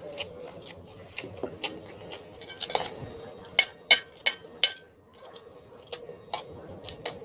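Eating utensils clinking and scraping against a dish in irregular sharp taps, with a quick cluster of louder clinks about three to five seconds in.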